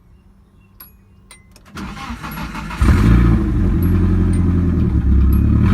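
Nissan SR20DET turbocharged four-cylinder engine, cold after sitting unused for a while, cranked on the starter for about a second. It catches about three seconds in and keeps running steadily and loudly.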